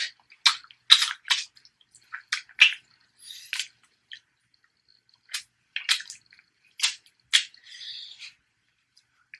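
Close-miked mukbang eating sounds: irregular wet smacks and sharp, crisp clicks of chewing and mouth noises, several a second with short pauses.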